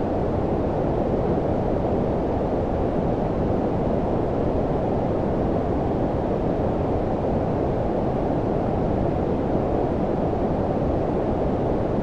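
Generated low-frequency white noise: a steady, deep, muffled hiss that does not change.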